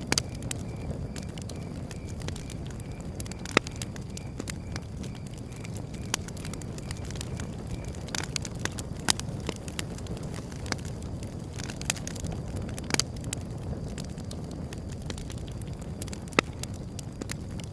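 Wood fire burning: a steady low rumble under irregular sharp crackles and pops, a few of them much louder than the rest.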